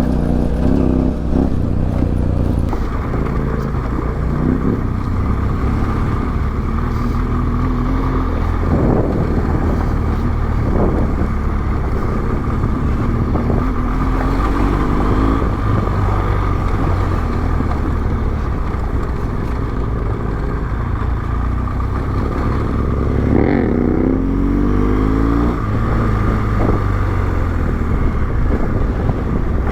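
Yamaha Ténéré 700 parallel-twin adventure motorcycle engine running while riding a rough dirt trail, its revs climbing and dropping several times, under steady wind and road noise.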